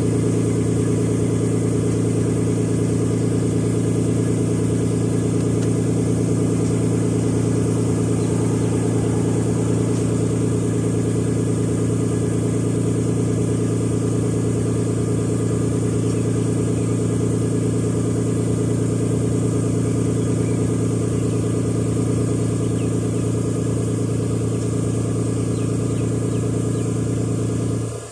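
1996 Nissan Skyline R33 GTS's RB20E 2.0-litre straight-six idling steadily after a cold start, with an even, unchanging note. The sound cuts off abruptly near the end.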